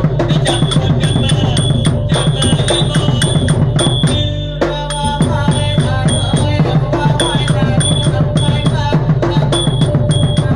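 Southern Thai nora ensemble music: rapid, dense drumming with an evenly repeating high ringing strike keeping the beat. The music thins out briefly about four seconds in, then carries on.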